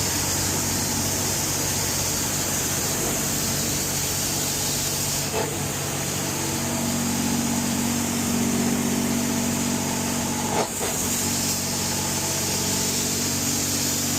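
Steady mechanical running with a low hum and a high hiss, from car wash machinery; a deeper tone joins about halfway through, and there are two brief knocks.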